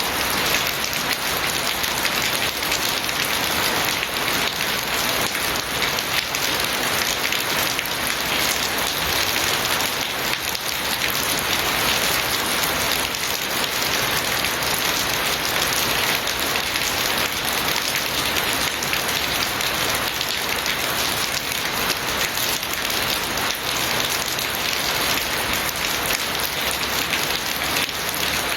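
Steady rain falling: a dense, even hiss of many drops that holds the same level throughout.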